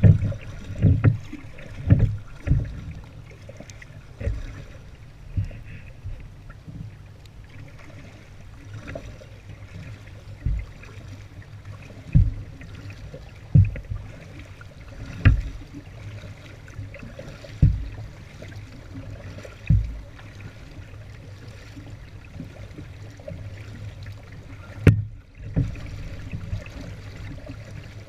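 A kayak being paddled through flood water: a steady low wash of water with short, low thuds at uneven intervals of one to a few seconds from the paddle strokes and the boat.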